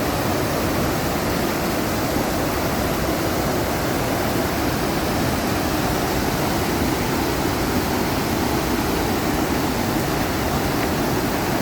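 Fast-flowing water in a man-made rapids channel, a steady loud rush with no breaks.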